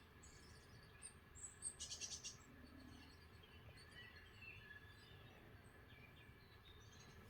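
Faint bird chirps and calls played through a TV speaker, with a short rapid trill about two seconds in.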